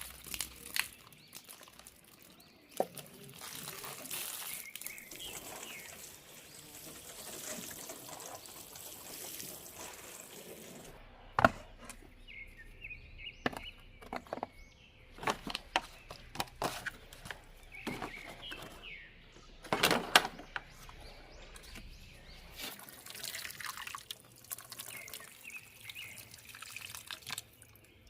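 Water running from a kitchen tap on and off, with sharp clinks and knocks of dishes and utensils scattered through it.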